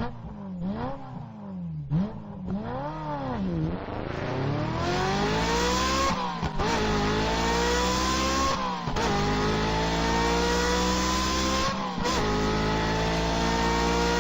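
Car engine revving in a few short blips, then accelerating through the gears: its pitch climbs steadily and drops back briefly at each of three shifts.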